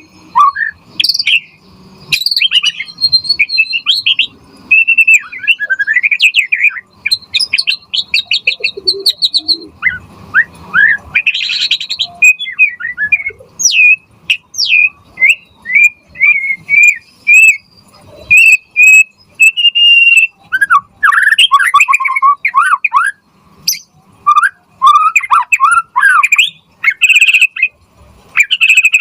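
White-rumped shama (murai batu) singing a loud, varied song of whistles, quick trills and chirps, delivered in phrases separated by short pauses.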